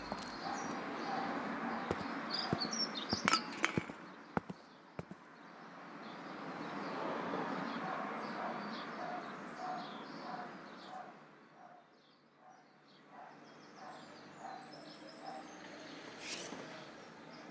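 Outdoor ambience: birds chirping over a background rush that swells and fades. A few sharp clicks come about three to five seconds in, and another near the end.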